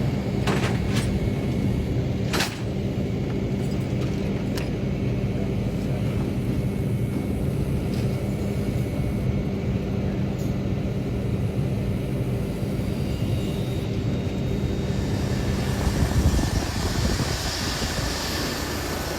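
Heavy engine running steadily with a low hum and a few sharp clicks in the first five seconds. About sixteen seconds in, the hum drops away and a rushing hiss with a high whine takes over.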